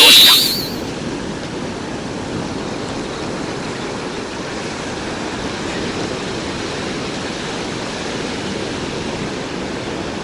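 Steady wash of surf on an open sandy beach, with wind on the microphone. A brief loud rushing sweep comes right at the start.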